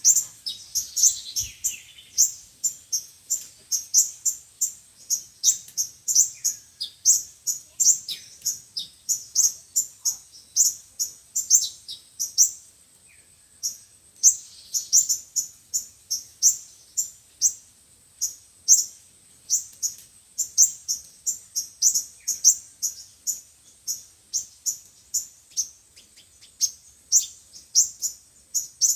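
Sunbirds calling: a long run of short, high, thin chirps, about three a second, with a couple of brief pauses.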